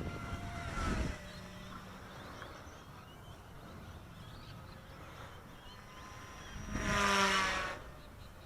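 Small electric RC helicopter's direct-drive brushless main motor and rotor whining steadily at a constant head speed, the pitch wavering slightly. It swells much louder for about a second near the end as the helicopter passes close, and wind rumbles on the microphone in the first second.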